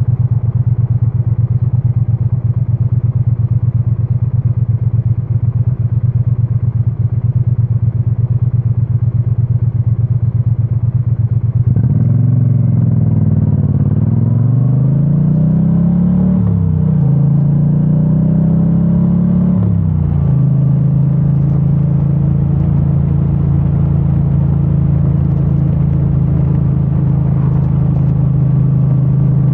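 2022 Triumph Bonneville T100's 900 cc parallel-twin engine on its stock exhaust, running steadily. About twelve seconds in it pulls away, rising and dropping in pitch several times as the rider shifts up through the gears, then settles into a steady cruise.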